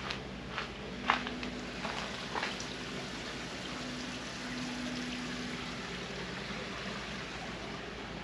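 Steady rushing of flowing water, with a few sharp knocks in the first couple of seconds, the loudest a little over a second in.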